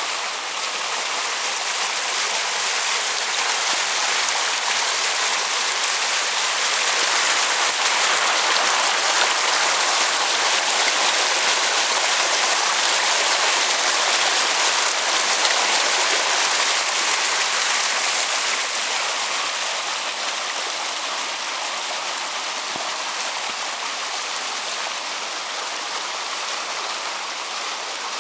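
Rain-swollen creek water rushing fast in flood, a steady hiss that swells a little in the middle and eases toward the end.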